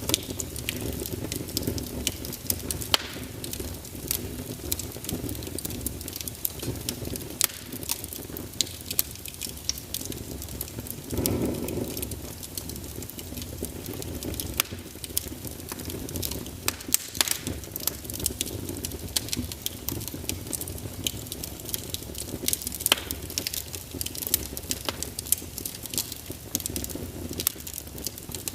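Wood burning in a fireplace: a steady low rush of flame with frequent sharp crackles and pops, and a brief louder swell about eleven seconds in.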